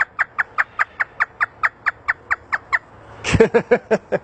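African grey parrot mimicking a hysterical laugh: a fast, even run of short 'ha' notes, about five a second, ending in a few louder, fuller laughs near the end.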